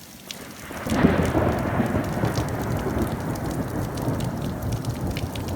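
Thunder rumbling over steady rain: a deep roll swells about a second in and carries on, easing slightly, while raindrops keep ticking.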